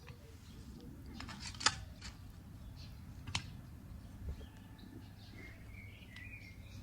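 A few sharp clicks over a steady low outdoor background, with a bird chirping near the end.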